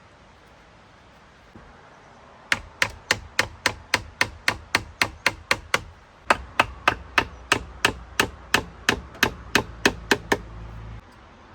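A hand tool striking repeatedly at an even pace, about three sharp strikes a second, in two runs with a short pause between them.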